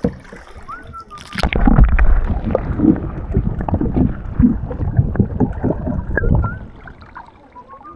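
Water splashing and sloshing around a kayak as it is paddled, with heavy low rumble. It is loudest from about one and a half to six and a half seconds in, then fades.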